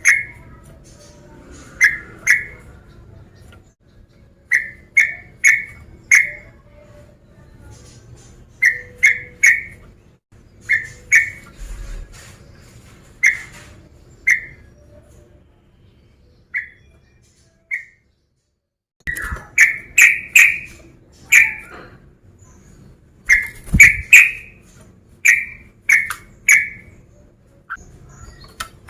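Male yellow-vented bulbul (trucuk) singing loud, short whistled phrases of two to four quick notes, repeated every second or two, with a brief pause just past the middle.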